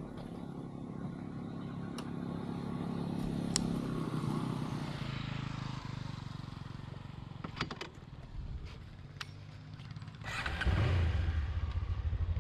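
Honda CB500 S parallel-twin motorcycle engine running under way, its pitch rising and then falling over the first few seconds, with scattered sharp knocks and clatter. About ten seconds in the engine sound turns suddenly louder and deeper.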